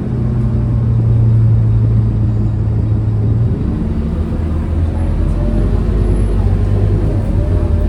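Scania K230UB bus's diesel engine running steadily under way. Its drone drops in pitch about three and a half seconds in.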